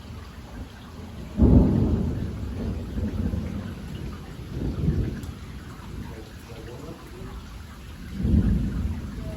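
Heavy rain falling steadily in a storm. Three low rumbles rise over it, about 1.5, 5 and 8 seconds in; the first starts suddenly and is the loudest.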